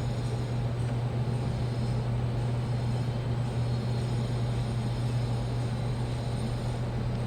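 Washing machine running with a steady low hum and even mechanical drone.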